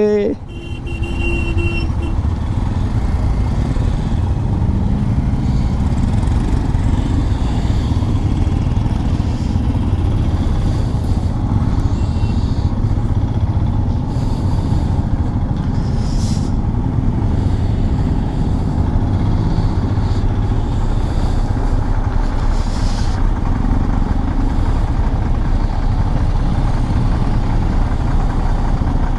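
Motorcycle on the move: a steady rush of wind and engine noise with no change in pace throughout.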